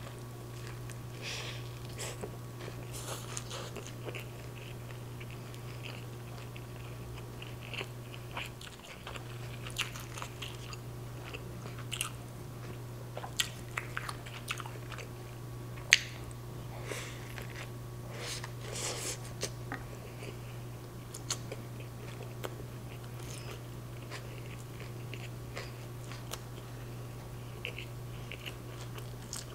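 Chewing and biting into a chicken street taco close to the microphone: moist mouth sounds with scattered crisp crunches and clicks, one louder click a little past halfway.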